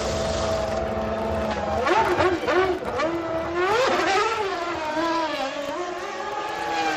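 Formula One car's V10 engine running at a steady pitch, then from about two seconds in revving up and down repeatedly, its pitch rising and falling.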